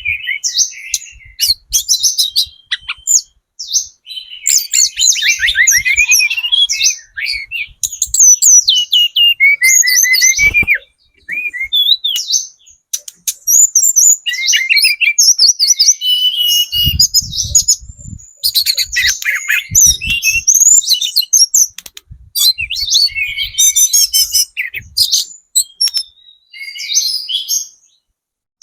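Juvenile speckled hill blue flycatcher (tledekan gunung trotol) singing continuously: rapid, varied high whistles and trills in long phrases broken by short pauses.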